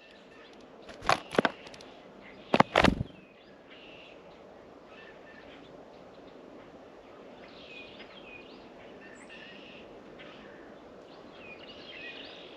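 Two short, loud bursts of wingbeats close to the microphone, about a second in and again near three seconds, as birds fly to or from the feeder. Faint, scattered chirps of small birds follow.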